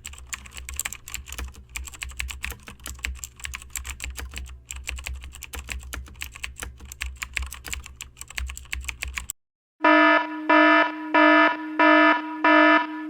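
Fast typing on a computer keyboard, a dense run of irregular key clicks, stops; after a short pause an electronic alarm starts, a buzzy beep repeating about every 0.6 seconds.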